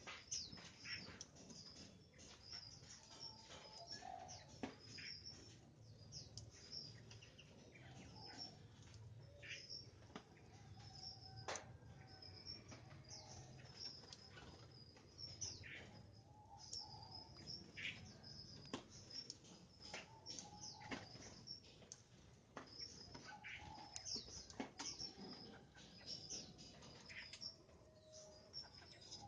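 Caged birds chirping faintly, short high chirps repeating every second or so, with occasional lower call notes and scattered light clicks.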